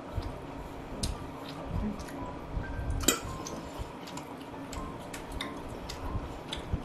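Close-miked chewing of steak: soft, wet mouth sounds with small clicks. A metal fork clinks sharply about three seconds in.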